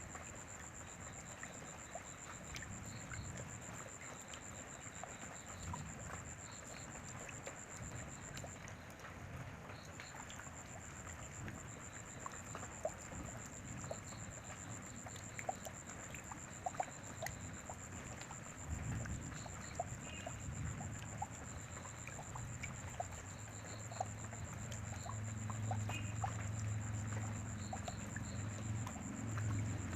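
Rain falling steadily, with scattered drips ticking on surfaces over a constant hiss. A low rumble comes in about two-thirds of the way through and grows louder toward the end.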